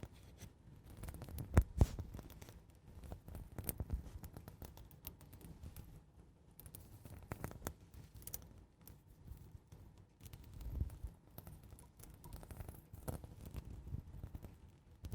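Slow, gentle ASMR scratching close to the microphone: irregular soft scrapes and light taps, with two sharper knocks about one and a half seconds in.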